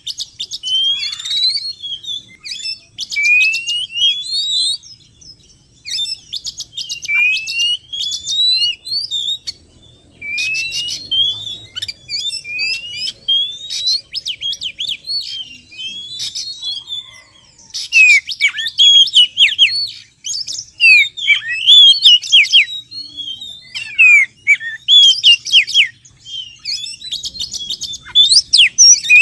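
Oriental magpie-robin song: a run of varied whistled phrases, many of them rising glides, broken up by fast chattering notes. About eighteen seconds in it grows louder, with sharp falling notes.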